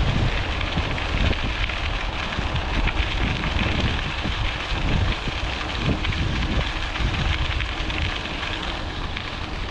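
Wind buffeting the microphone of a moving bicycle, with the bike's tyres crackling over a fine pea-gravel trail surface.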